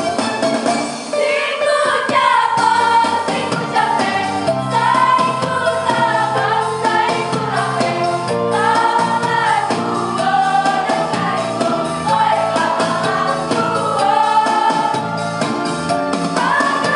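A choir singing in parts over musical accompaniment, in held, arching melodic phrases.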